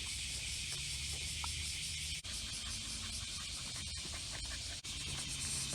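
Steady, high outdoor insect chorus over a low rumble, briefly dropping out twice.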